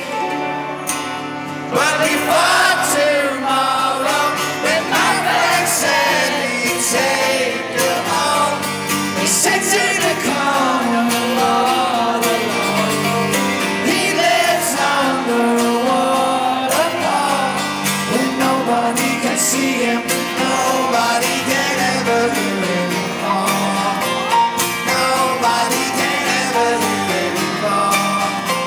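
Live rock band playing an instrumental passage, with guitar to the fore.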